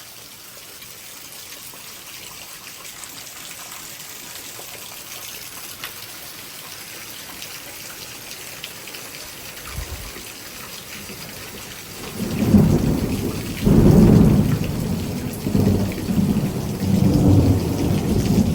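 Heavy rain falling steadily; about twelve seconds in, thunder starts rumbling loudly in several rolling waves that last to the end.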